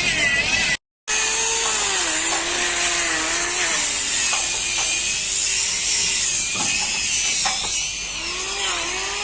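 A workshop power tool running steadily, its pitch wavering up and down under changing load. It is cut off abruptly for a moment about a second in.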